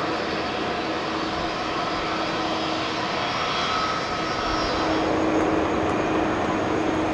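Airbus A330-223's Pratt & Whitney PW4000 turbofan jet engines running: a steady jet rush with a low hum and faint steady whines. It grows a little louder about five seconds in.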